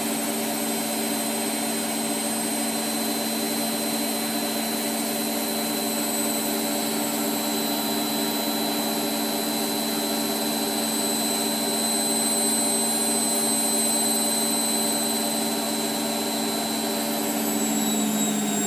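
Hotpoint Aquarius WMF720P washing machine on its final high-speed spin: a steady motor and drum whine with a high whistle over a low hum. Near the end the pitch starts to fall as the spin winds down.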